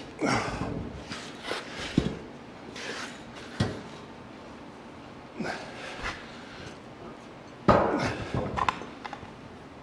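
Workshop handling noises: a series of irregular knocks and clanks with some scraping, as heavy steel pieces are moved and set down. The loudest is a longer clatter near the end.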